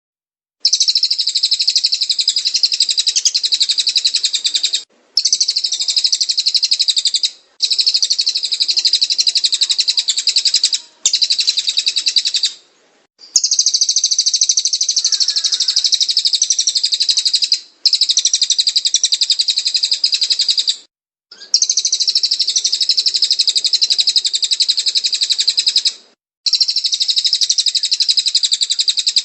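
Cililin bird singing: a dense, rapid, high chirping song in long unbroken phrases of a few seconds each, separated by brief pauses.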